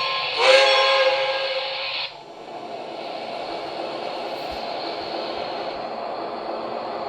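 Sound effects from a model train locomotive's onboard speaker: a multi-note signal blast starting about half a second in and stopping about two seconds in, then a steady hiss that cuts off suddenly near the end.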